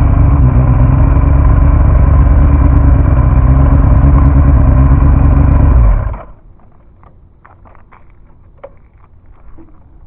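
Yamaha R1 sport bike's inline-four engine running steadily without revving, then switched off about six seconds in, stopping abruptly. Faint clicks and taps follow.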